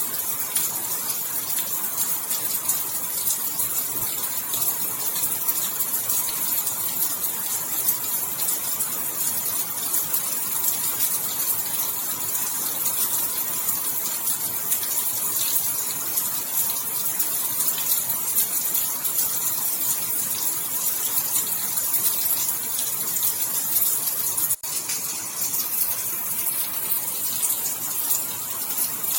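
Steady rain falling, a dense, even patter of drops with no let-up. About twenty-five seconds in the sound drops out for an instant and then carries on.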